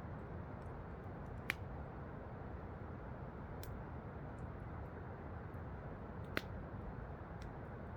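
Campfire crackling, with two sharp pops about a second and a half in and about six seconds in and a few fainter ticks, over a steady rush of falling water from waterfalls.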